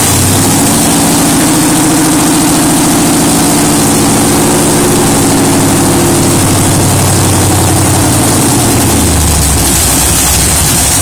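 Freshly built 383 stroker small-block Chevy V8 with tuned-port fuel injection idling just after start-up, a steady loud exhaust note. About nine seconds in the note changes and drops lower.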